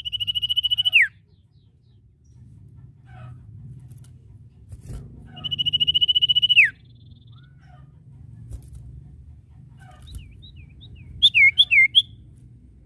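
Sirtu, the common iora, singing: two long, high, slightly trilling whistled notes, each about a second long and each ending in a quick downward slide, then a burst of short looping chirps near the end.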